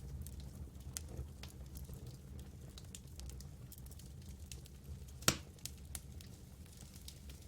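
Campfire burning, wood crackling with scattered small snaps and one loud pop about five seconds in, over a steady low rumble.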